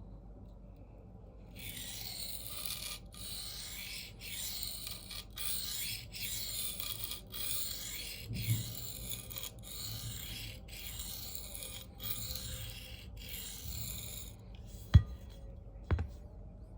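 Knife blade of CPM 4V steel rasping in even back-and-forth strokes on a coarse 325-grit diamond plate, about one stroke a second, grinding a new edge bevel and raising a burr. Near the end come two sharp clicks, the first the loudest sound here.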